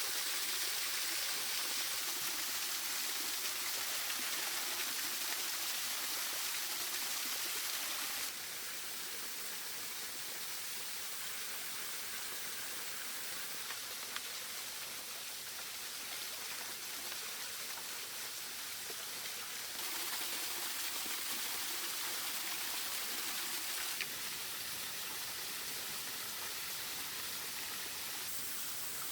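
Steady rush of water falling and splashing from a small waterfall, a continuous hiss that changes level and tone abruptly about eight seconds in, again near twenty seconds and near twenty-four seconds.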